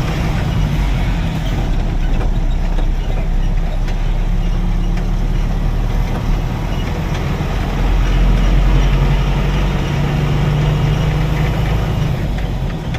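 Truck engine running steadily, a little louder from about eight seconds in.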